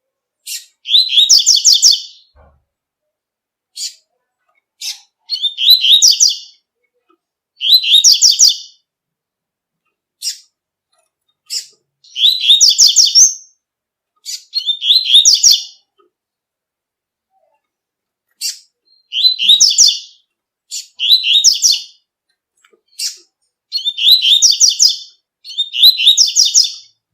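Double-collared seedeater (coleiro) singing its 'tui tui' song: short phrases of rapid, high notes, each about a second long, repeated about ten times with brief pauses. Single sharp call notes fall between the phrases.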